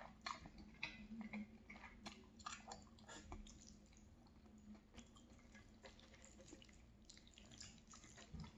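Close-miked chewing of a mouthful of linguine in tomato sauce: soft, wet mouth smacks and clicks, busiest in the first three seconds or so, then thinning to a few sparse ones.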